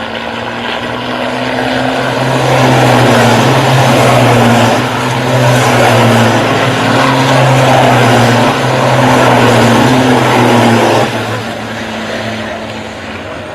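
Heavy vehicle engines running loudly at a steady pitch, building up over the first couple of seconds, dipping briefly twice, then dropping off sharply near the end.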